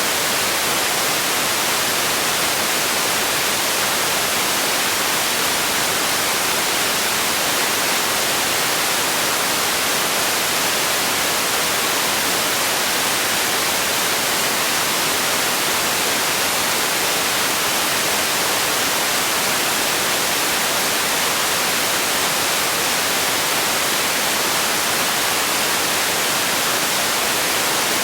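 Steady, unchanging hiss-like noise, with most of its energy in the high range, like white noise or static.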